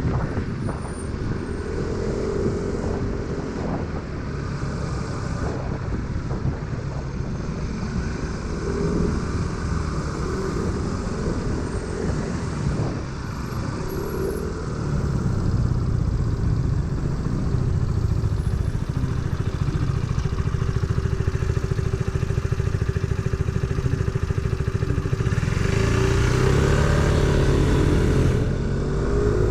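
Scooter engine running while riding, with wind rush over the microphone. The engine note wavers as the throttle changes, and the whole sound grows louder about halfway through.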